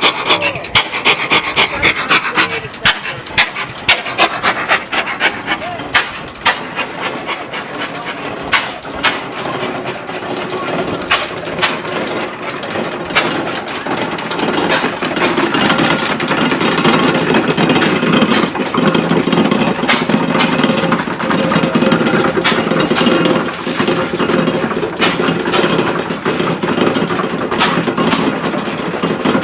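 A 5 hp Challenge stationary gas engine driving a fodder cutter. The rig gives sharp, regular beats, about two and a half a second. From about halfway through, a loud, dense rasping and crunching builds as dry corn stalks are fed in and chopped.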